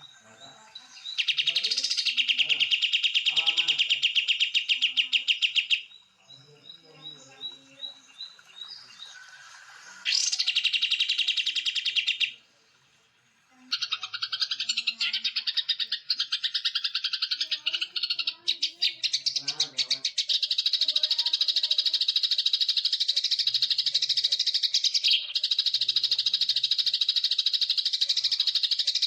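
Songbirds singing in fast, dense chirping trills, in edited segments that start and stop abruptly, with a brief gap about halfway through.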